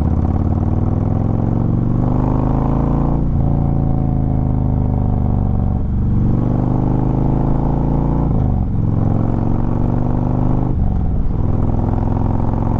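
Harley-Davidson Road Glide's V-twin engine accelerating up through the gears. The pitch climbs in each gear and drops at each of about four shifts. The bike is in its rain ride mode, which feels like a little less power.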